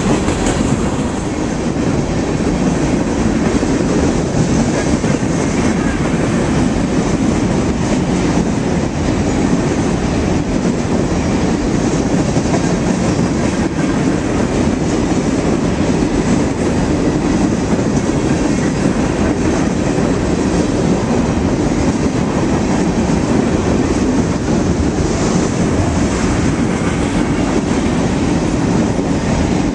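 Freight train of tank cars rolling past, a steady loud rumble of wheels on rail.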